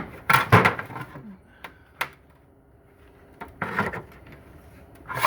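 Heavy knocks and scrapes as a Corvair Powerglide transmission case is turned over and shifted on a work surface. The loudest clatter comes about half a second in, a sharp knock at about two seconds, and more bumping and scraping from about three and a half seconds on.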